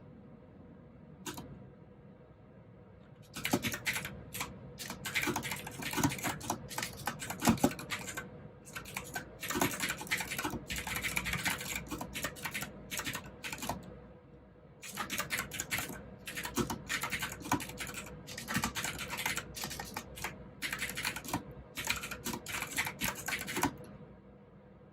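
Typing on a clicky blue-switch mechanical keyboard: a single keystroke about a second in, then steady runs of fast keystrokes with a couple of short pauses, stopping just before the end.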